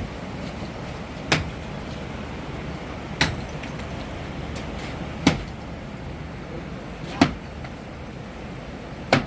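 Sharp single knocks at a slow, regular pace, one about every two seconds, five in all, over a steady low background noise.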